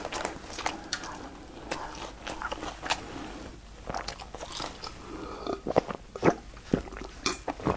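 Close-up chewing and wet mouth clicks of a person eating a mouthful of food, then a few louder clicks and swallows near the end as she drinks from a bottle.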